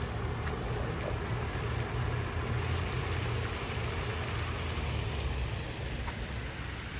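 A steady low rumble with hiss, typical of road traffic going by, easing off near the end.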